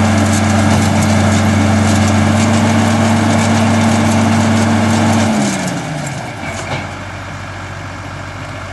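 Case International tractor running steadily with the hay baler. About five seconds in, the machinery winds down with a falling pitch, leaving a quieter, steady background running sound.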